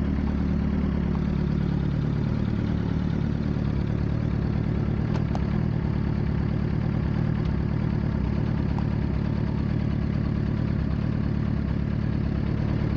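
Suzuki GSX-R600 K7 inline-four engine idling steadily, its pitch easing down briefly in the first couple of seconds.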